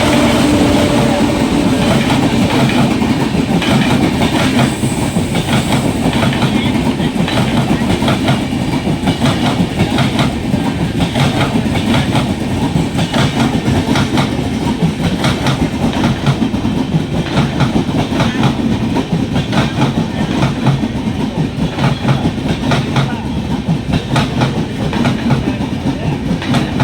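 Loud, steady rumble and rattle of a moving vehicle during a ride, with many sharp clicks and knocks throughout and a brief steady tone fading out in the first second.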